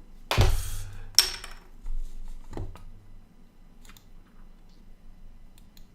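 Close handling noises: a short rustle about half a second in, then a sharp click and a knock, and faint scattered ticks after.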